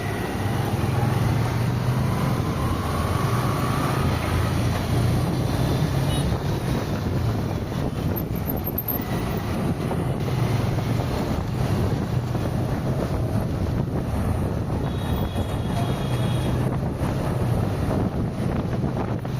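Car driving along a highway: a steady low rumble of engine, tyres on the road and wind noise.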